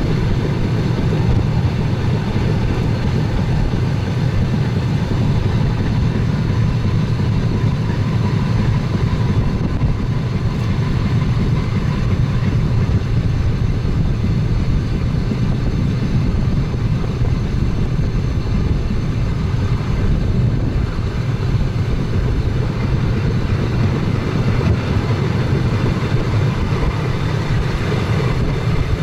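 Steady rumble of an express train's wheels and running gear at speed, heard from inside the front cab, with a faint steady whine.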